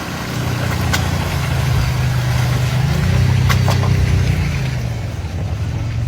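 Truck engine running steadily at low revs, growing a little louder through the middle and easing off near the end, with a couple of faint clicks.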